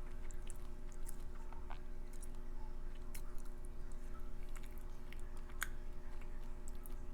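Close-miked chewing of soft food, with scattered wet mouth clicks and smacks over a faint steady hum.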